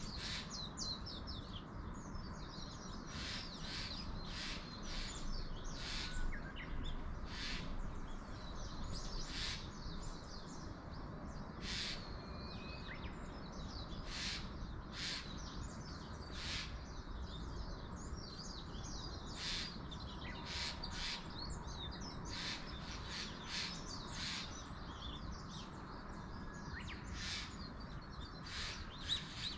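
Wild birds calling in short, separate calls, repeating irregularly throughout, with crows cawing among them, over a steady low background noise of wind in the mountain forest.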